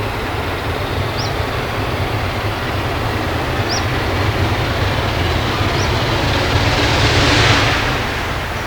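Steam train running, a steady low rumble with short high squeaks every second or two. About seven seconds in, a rush of noise swells and fades.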